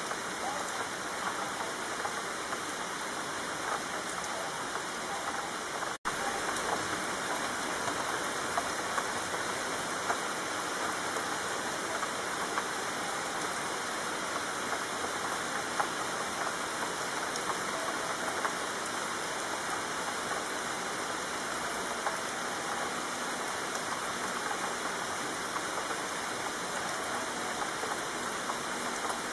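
Steady rain falling, an even hiss of drops with small random louder patters. It cuts out for an instant about six seconds in.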